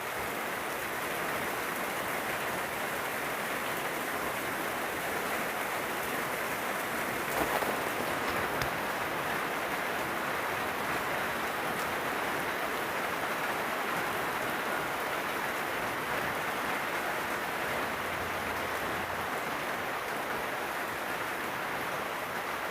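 Heavy rain pouring down steadily, a dense even hiss that swells briefly about a third of the way through.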